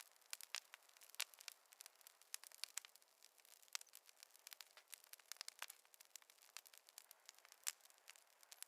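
Wood fire crackling: irregular sharp pops and snaps, several a second, over a faint hiss.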